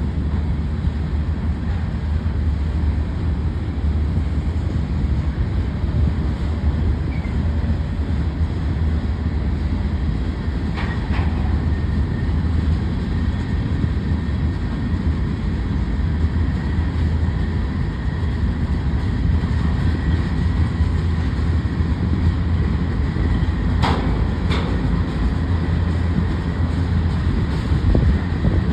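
Union Pacific manifest freight train rolling past, a steady low rumble of wheels on rail. Two short sharp clanks stand out, about a third of the way in and again near the end, and a faint high steady squeal joins from about a third of the way in.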